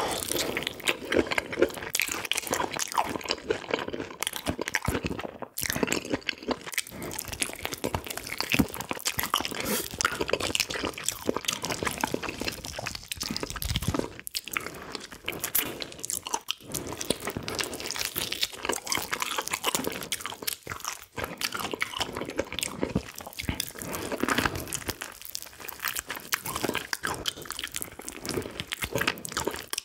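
Close-miked chewing and biting of spicy braised pig's feet (bul-jokbal), a continuous run of small crunchy, sticky mouth sounds.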